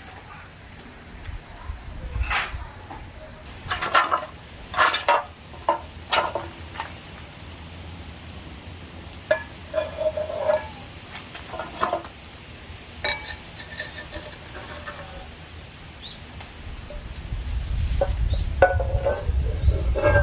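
Crickets trilling steadily, with scattered clinks and knocks of dishes and utensils during a meal. A low rumble builds near the end.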